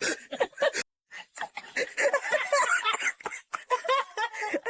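A person laughing in short repeated bursts, with a denser stretch of overlapping laughter in the middle.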